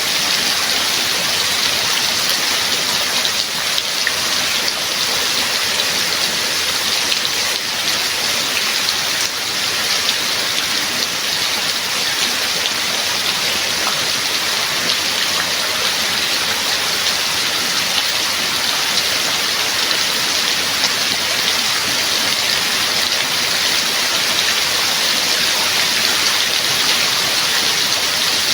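Steady rain falling: a bright, even hiss of many drops that holds unchanged throughout.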